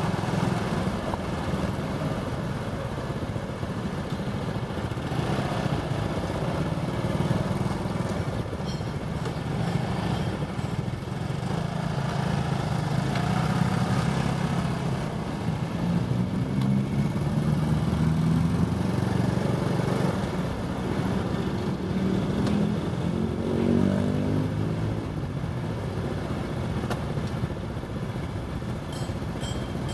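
Motorbike engine running in city traffic, with its pitch rising a couple of times in the second half as it speeds up.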